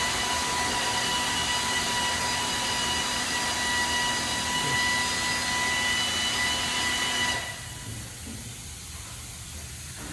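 A loud, steady hiss with a whistling tone in it. It cuts off about seven seconds in, leaving a fainter hiss.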